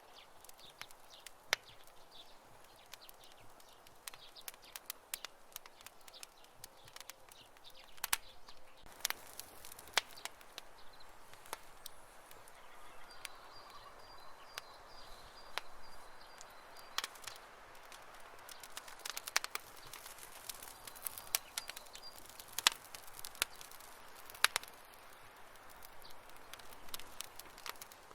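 Wood campfire crackling: irregular sharp pops and snaps of burning wood over a soft steady hiss of the flames. A faint thin high whistle runs for a few seconds around the middle.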